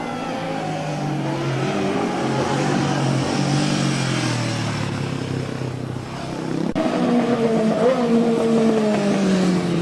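Racing motorcycle engines at high revs going past, their pitch falling as they pass. A louder bike comes through about seven seconds in.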